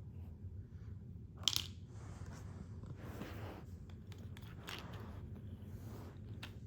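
Small clicks and scrapes of plastic toys being handled, with one sharp click about one and a half seconds in, over a low steady hum.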